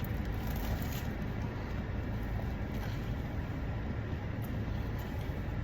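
Steady low hum of a car heard from inside the cabin, with the engine or climate fan running.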